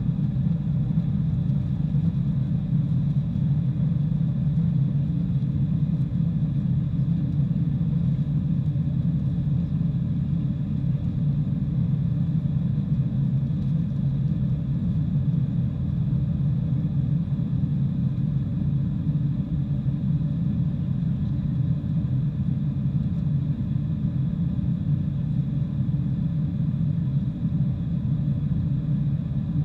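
Steady low rumble of a four-engine Boeing 747-400 airliner, engine and airflow noise that stays even throughout, with faint steady whining tones above it.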